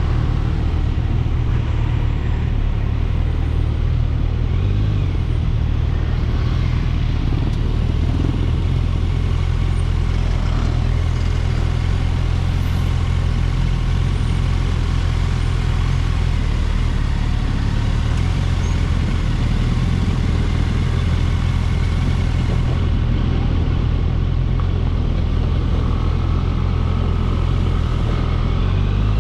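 Kawasaki Ninja 1000SX's inline-four engine running steadily while the bike is ridden.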